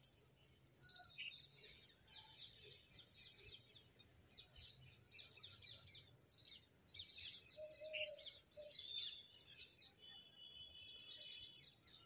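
Faint chirps of small birds, many short calls scattered throughout, with one longer high whistled note about ten seconds in.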